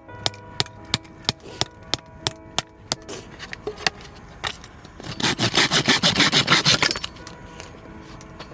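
A quick run of rhythmic scraping strokes, about eight a second for roughly two seconds, over light background music with a steady ticking beat.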